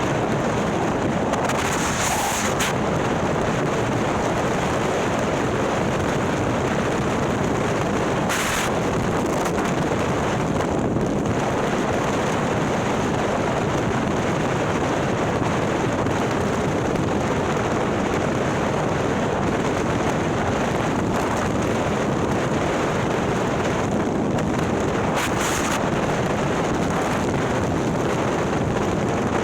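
Harley-Davidson Milwaukee-Eight V-twin, built out to 130 cubic inches, running at a steady pace under way through a ThunderHeader exhaust, mixed with heavy wind noise on the microphone.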